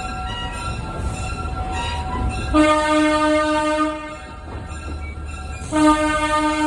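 Air horn of a 75-ton diesel switcher locomotive sounding two long blasts, about a second and a half apart, over the low rumble of its engine. Two long blasts are the usual signal that a train is about to move off.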